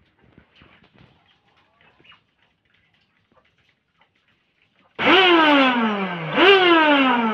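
Vacuum cleaner motor switched on about five seconds in and winding down, its whine falling steadily in pitch; about a second and a half later it is powered again, jumps back up and winds down once more. Before it, only faint clicks.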